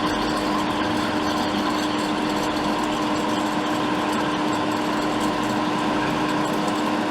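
Steady whir of a small electric blower on a repair bench, with a constant low hum running through it.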